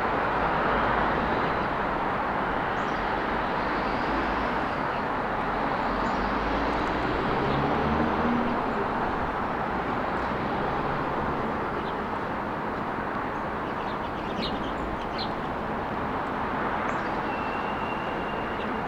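Steady road traffic, swelling as vehicles pass, with a few short bird chirps about three-quarters of the way through.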